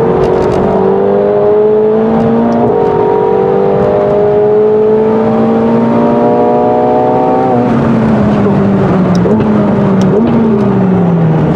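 McLaren 720S's twin-turbo V8, tuned to about 800 horsepower, pulling hard under full throttle, its pitch climbing through the revs with one upshift about two and a half seconds in. About three quarters of the way through it comes off the throttle and the pitch falls, with two brief throttle blips as it changes down.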